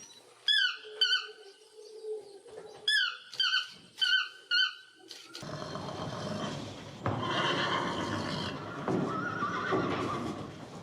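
A run of short, high chirps, each falling in pitch, over the first five seconds, then a horse neighing, long and rough, to the end.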